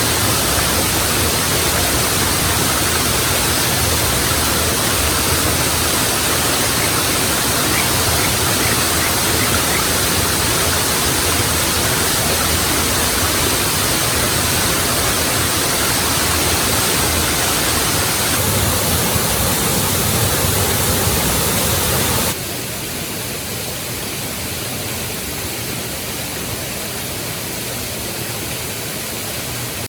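Waterfall rushing as a steady, even roar. About 22 seconds in it drops abruptly to a quieter level and carries on steadily.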